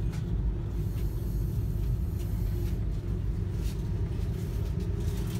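Steady low rumble of a moving passenger train heard from inside the carriage, with a few faint clicks over it.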